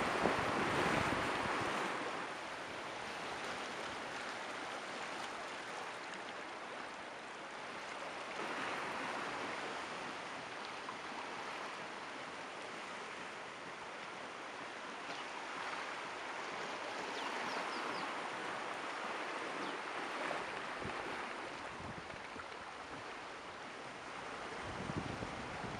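Sea surf washing against rocks as a steady rush of water, swelling louder with each wave roughly every eight or nine seconds. The loudest surge comes right at the start.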